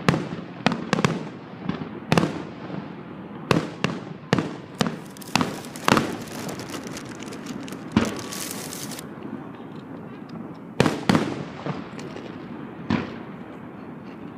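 Aerial fireworks shells bursting: a rapid string of sharp bangs with echoing tails, then a few seconds of dense crackling hiss around the middle, followed by a couple more bangs.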